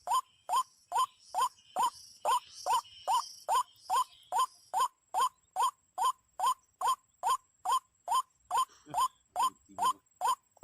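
Ruak-ruak (white-breasted waterhen) call: one short rising note repeated at a very even pace, about three a second.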